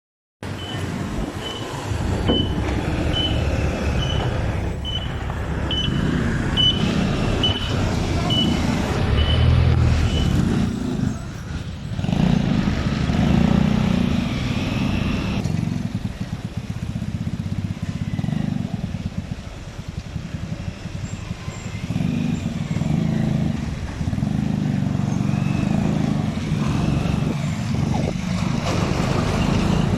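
Honda XR150L's single-cylinder engine running on the move, its pitch rising and falling as the bike speeds up and slows. A short high beep repeats about twice a second through the first ten seconds.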